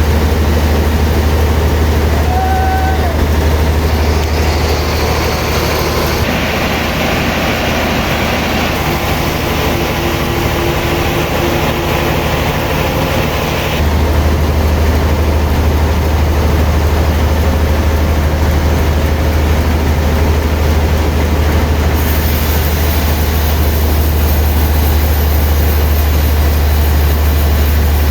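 Sawmill machinery running steadily, with a loud deep engine hum. The sound shifts about 6 and 14 seconds in, and a high hiss joins it about 22 seconds in.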